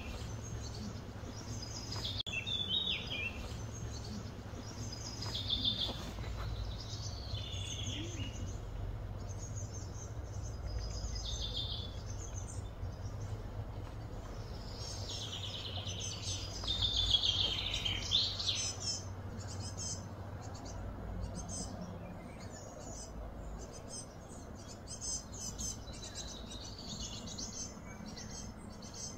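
Birds chirping and calling in short repeated phrases, busiest and loudest about halfway through, over a steady low rumble.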